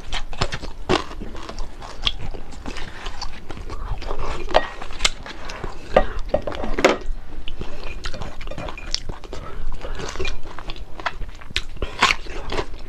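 Close-miked eating: a person biting, crunching and chewing crispy fried fish with rice, in a string of irregular crackles and mouth clicks.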